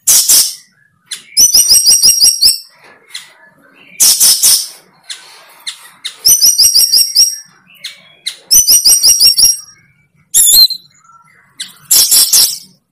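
A bird calling loudly and close by: harsh squawks alternating with quick runs of high chirps, repeating every few seconds.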